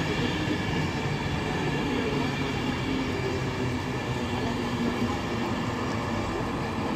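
InterCity 225 electric train at the platform, a steady hum of the Class 91 locomotive and its coaches with several steady whining tones.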